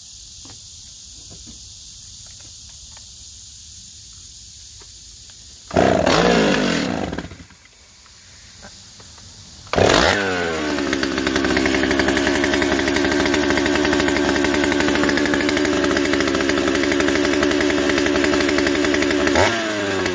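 Stihl 028 Wood Boss two-stroke chainsaw being pull-started. About six seconds in it fires for a moment and dies. About ten seconds in it catches and runs steadily at idle, with a short rev blip near the end. It is running on a newly fitted carburetor with its ignition points freshly cleaned.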